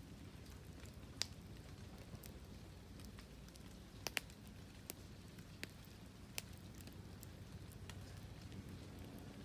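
Wood fire burning quietly, crackling with scattered sharp pops, a double pop about four seconds in.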